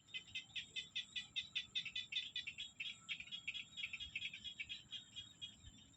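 Small paddy frogs and birds calling: a fast, even train of chirps, about six a second, that fades over the last couple of seconds, over a thin steady high-pitched tone.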